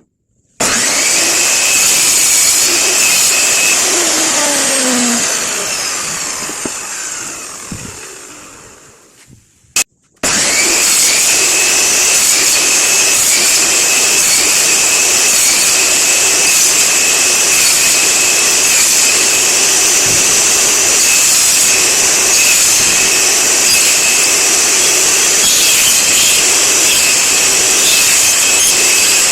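High-speed electric power tool starting abruptly and running with a steady whine. It is switched off and winds down over several seconds with falling pitch, then starts up again about ten seconds in and runs steadily.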